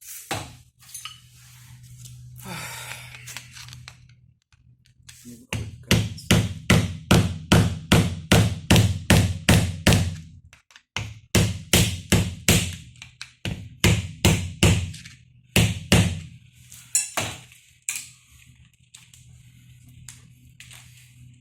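Hammer striking metal in quick repeated blows, about three a second, in two long runs with a short break between them, then a few single knocks. A steady low hum runs underneath.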